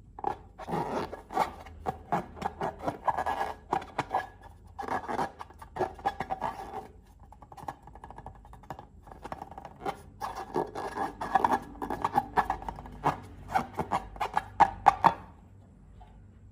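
Close-up handling of balloons and slime: dense crackling, rubbing and sticky clicking in two spells of several seconds each, with a pause between.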